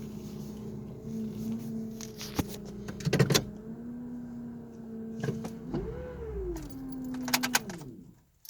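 2010 Honda Civic's power steering whining with a steady pitch while running, a noise still there after the pump and high-pressure hose were replaced and the lines bled. About six seconds in the pitch rises and falls once, then the whine winds down and stops near the end, with a few clicks and rattles.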